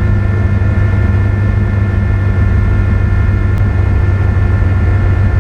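Vehicle engine running at a steady speed, a constant low drone with no change in pitch.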